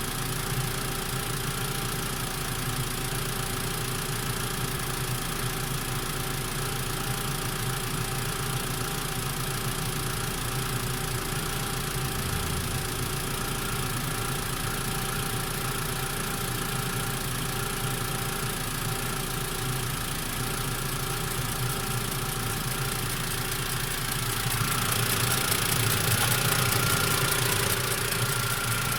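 Warmed-up Mitsubishi MIVEC engine idling steadily, with the extraneous noise it develops once warm. It grows louder for a few seconds near the end.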